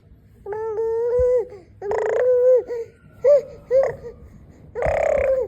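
A toddler imitating a motorbike with her voice: a series of high-pitched, wavering engine noises made with the mouth, each about a second long, with two short yelps about halfway through.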